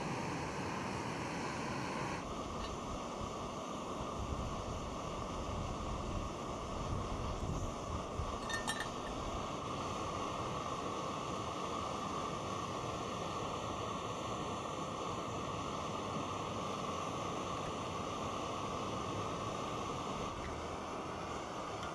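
Wind blowing over the microphone, a steady rushing with heavier low buffeting for a few seconds, and a short clink about nine seconds in.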